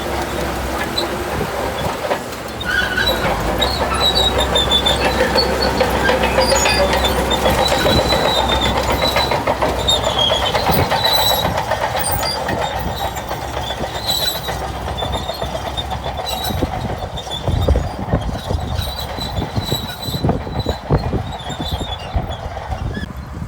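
Shantui crawler bulldozer working, its steel tracks squealing and clanking over the steady diesel engine, with a few heavy knocks in the last third.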